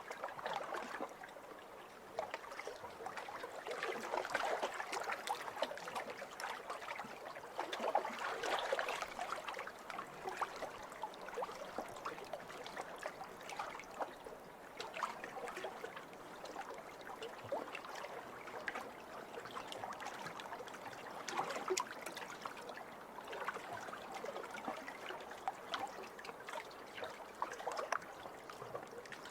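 Small waves lapping over a pebble shore: a continuous gentle wash that swells and recedes every few seconds, with fine clicking of the pebbles as the water moves over them.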